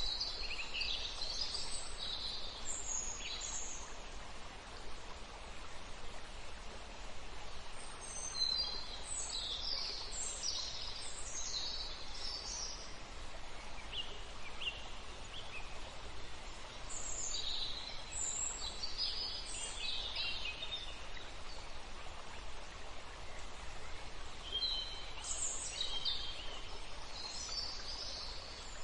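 Birds singing in clusters of short, high chirping phrases every several seconds, over a steady outdoor background hiss.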